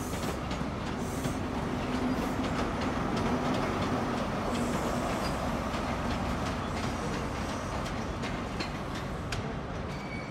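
Express passenger train running slowly, its wheels clicking over rail joints and points, over a steady low hum that fades a little towards the end.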